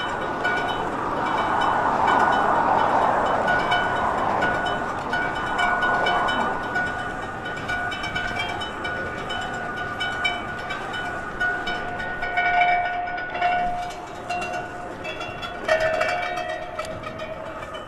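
A bike giving an odd, high-pitched squeal that comes and goes in short stretches, over a steady rushing noise that fades after the first few seconds.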